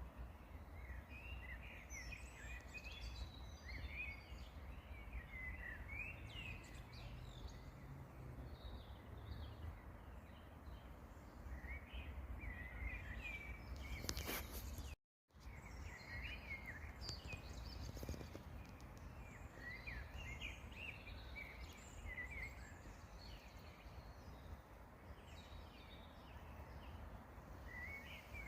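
Songbirds chirping and singing in short, scattered phrases over a low, steady background rumble. The sound cuts out completely for a moment about halfway through.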